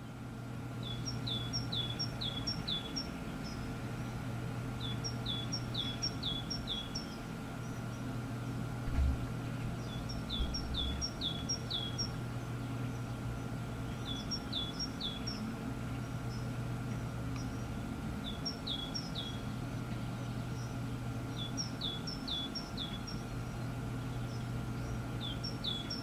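A small songbird repeating a short song phrase about seven times, each phrase a quick run of four or five paired notes: a high short note, then a lower falling one. A steady low hum runs underneath, with a single soft thump about a third of the way through.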